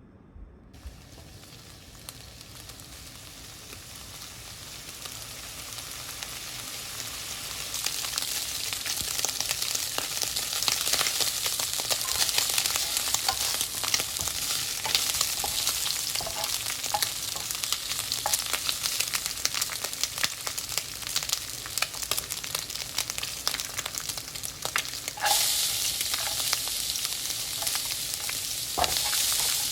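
Food frying in a hot pan: a crackling sizzle that builds over the first several seconds and then holds steady, with a sudden louder surge about 25 seconds in.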